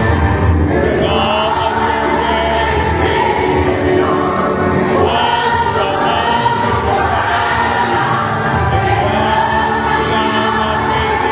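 A congregation singing a gospel hymn together over instrumental accompaniment.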